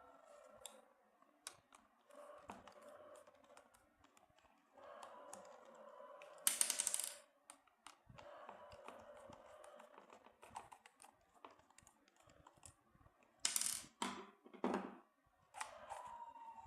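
Small clicks and knocks of hard plastic parts being handled as a disco light bulb is taken apart, with louder scraping rustles about halfway and again near the end.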